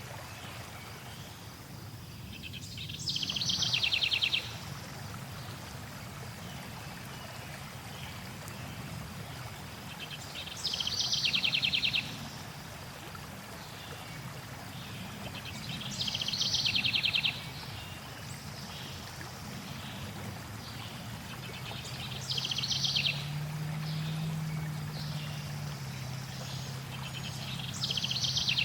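A songbird repeating a short, fast trill about every six seconds, five times, over a steady rush of flowing water.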